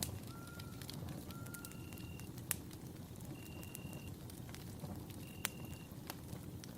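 Campfire burning with a steady low rumble and sharp crackling pops, the loudest about two and a half and five and a half seconds in. A short high-pitched tone repeats about every two seconds over it.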